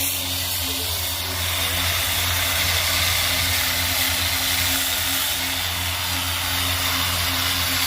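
A machine running steadily with a constant low hum and an even hiss over it, as acid-treated steel is cleaned of its mill scale.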